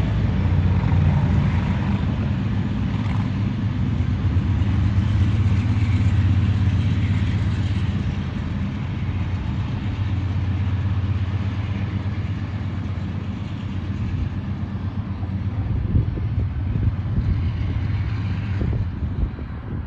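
Diesel locomotive engine running with a steady low drone, with a few sharp knocks in the last few seconds.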